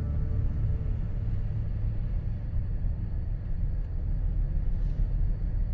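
A car driving on the highway: a steady low rumble of engine and road noise.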